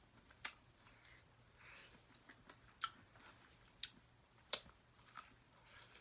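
Quiet close-up eating of garlic corn on the cob: chewing and biting into the kernels, heard as a handful of crisp clicks spaced about a second apart, with a brief soft smacking sound about two seconds in.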